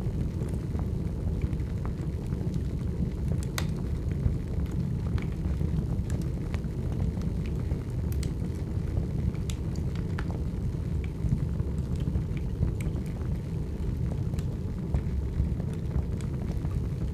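Large fire burning: a steady low roar with scattered sharp crackles and pops at irregular moments.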